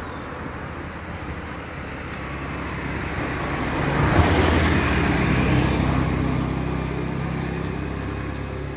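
A motor vehicle passing on a road, its engine and tyre noise growing louder to a peak about halfway through, then fading away.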